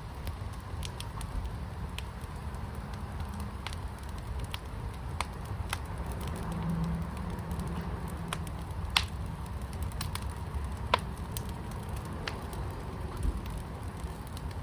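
Fire crackling in a firepit: scattered sharp pops over a low steady rumble, with two louder pops about nine and eleven seconds in.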